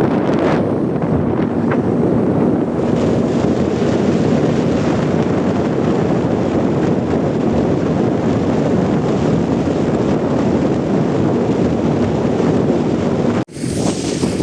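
Outboard motor of a fishing boat running underway, with wind buffeting the microphone. A sudden break about a second before the end, after which the noise is hissier.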